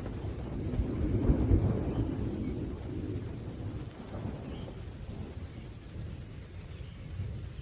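Rolling thunder rumbling low, swelling about a second in and slowly fading, over a light hiss of steady rain.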